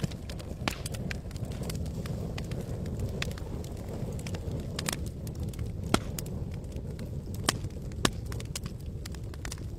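Campfire crackling: irregular sharp pops and snaps of burning wood, the loudest about six and eight seconds in, over a steady low rumble.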